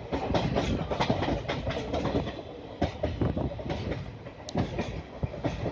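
Indian Railways passenger train running, its wheels clattering irregularly over the rail joints with a steady rumble, heard through an open carriage window.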